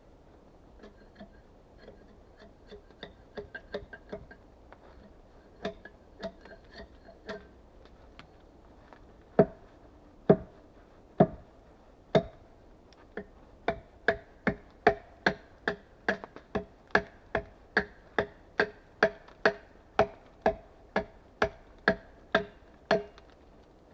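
Repeated blows of a tool on wood, each a sharp knock with a short ringing note. Light taps come first, then four heavy blows about a second apart, then a steady run of about two blows a second.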